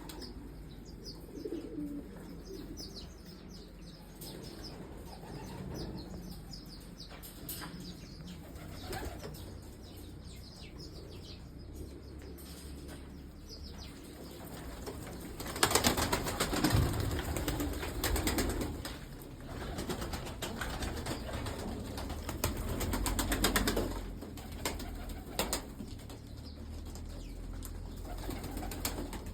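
Pigeons cooing softly, with loud bouts of wing flapping from about halfway through.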